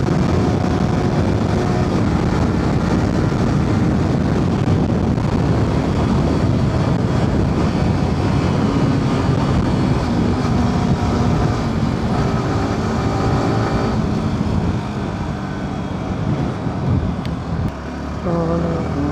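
Yamaha R15's single-cylinder engine running while the bike is ridden, with heavy wind rush over it and the engine note shifting up and down. The sound gets somewhat quieter over the last few seconds.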